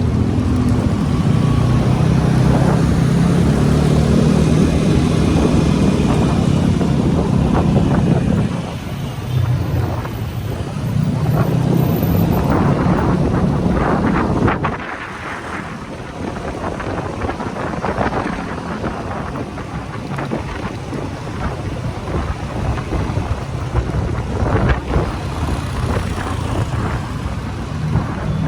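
Motorcycle engine running under way, with wind noise on the microphone. The engine note is strong for the first half, then drops away about halfway through and carries on lower and more uneven.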